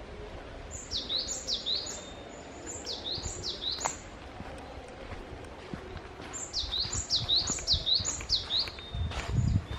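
A small songbird singing phrases of high, sharply down-slurred notes, repeated in three runs of about three to seven notes each. A few low thumps near the end.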